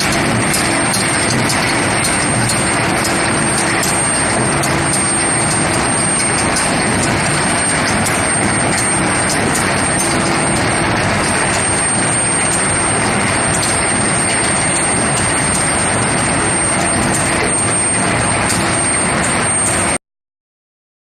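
Induction forging machine running steadily: a loud, even machine noise with a constant high-pitched whine, which cuts off suddenly near the end.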